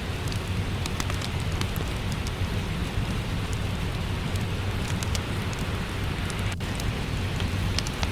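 Steady rain falling, with a low rumble beneath and scattered small crackles of a wood fire. There is a momentary break in the sound about two-thirds of the way through.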